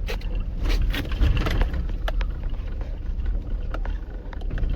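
Vehicle cabin noise while driving over a rough dirt road: a steady low rumble with repeated knocks and rattles from the bumpy track, heaviest about a second in.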